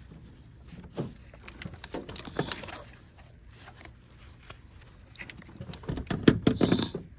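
Hands working in a truck's engine bay: irregular clicks, knocks and rustling of parts being handled, in two busy spells, the second about six seconds in being the loudest.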